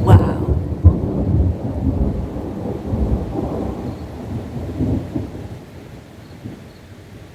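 Close thunder: a sharp crackling crash right at the start, then a deep rolling rumble that fades away over about six seconds, with rain falling.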